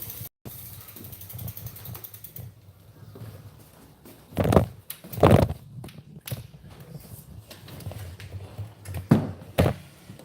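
Mechanical clicking and knocking over a low steady rumble, with four loud knocks: two about a second apart near the middle and two close together near the end.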